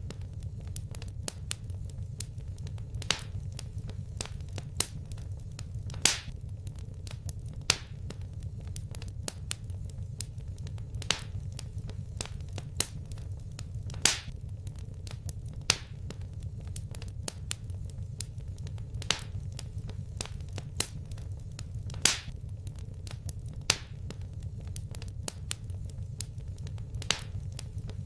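Wood fire in a fireplace crackling, with sharp pops every second or two over a steady low rumble.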